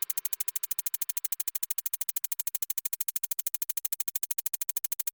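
Rapid, perfectly even electronic ticking pulse, about twelve clicks a second at a steady level, like a synthesizer or drum-machine beat.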